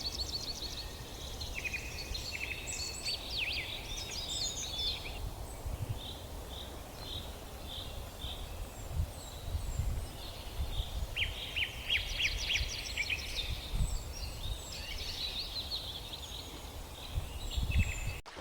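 Small birds chirping and trilling in several bursts, including a run of evenly repeated short notes, over a steady low outdoor rumble. The sound cuts off abruptly just before the end.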